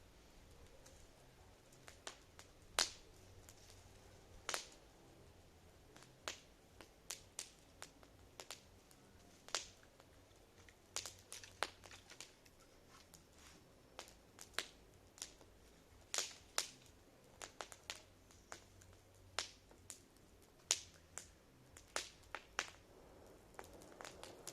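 Campfire crackling: irregular sharp pops and snaps, about one or two a second, over a faint steady hiss.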